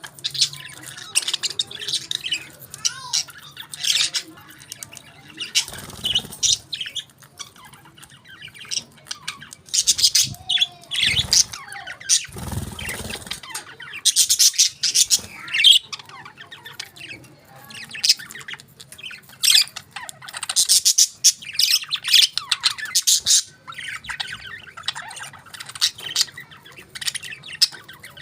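Budgerigars chattering, with rapid warbling chirps and sharp squawks in a busy, continuous stream.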